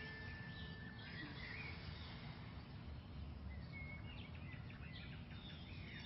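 Faint ambience with scattered short bird chirps.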